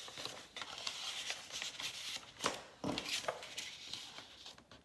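Paper pages and cards of a handmade junk journal being turned and handled: light rustling and soft taps, with one sharper snap about two and a half seconds in.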